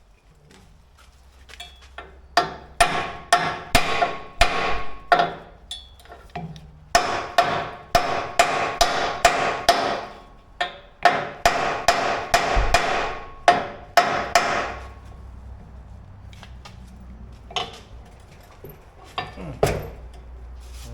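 Hammer blows on steel in three quick runs of about three strikes a second, each blow ringing. A few scattered knocks follow near the end.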